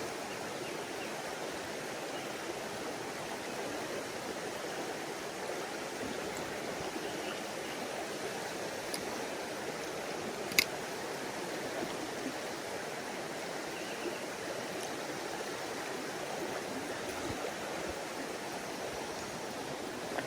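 Mountain stream water rushing steadily, with one sharp click about halfway through.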